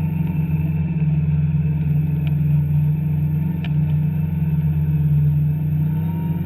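Two-stroke snowmobile engine running at a steady, even speed.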